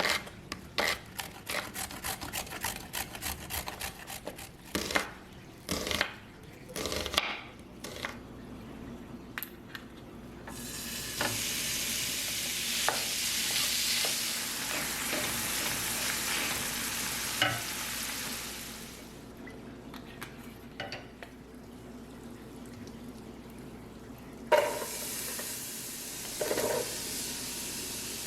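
A utensil scraping and tapping in a pan for about ten seconds, then a loud sizzle of food frying in hot oil that lasts about eight seconds and dies down. A second sizzle starts a few seconds before the end.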